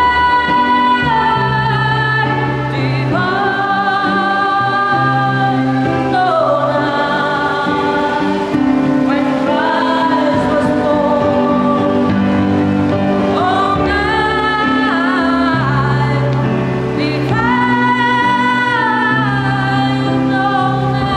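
Children's choir singing a Christmas carol, in long held phrases that rise and fall every few seconds over steady low notes.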